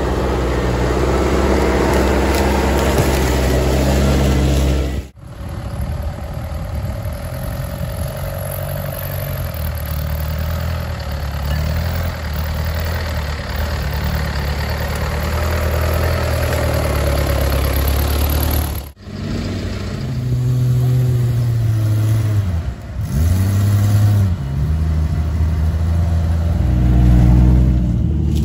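Off-road 4x4 vehicle engine running and revving, with a rise and fall in pitch about three-quarters of the way through. The sound breaks off abruptly twice, about five seconds in and again past the middle.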